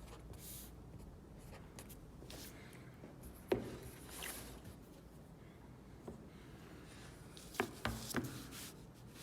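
Pencil strokes scraping across a wooden drawing board, with a sharp knock about a third of the way in and three quick knocks near the end as hard tools are set down on the board.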